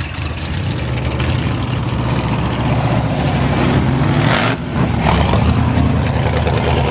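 An off-road vehicle engine running loudly, revving up in pitch around the middle and dipping briefly about four and a half seconds in before running on.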